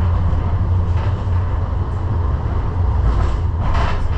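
Light-rail train car running between stations, heard from inside the car as a loud, steady low rumble, with a brief rushing noise near the end.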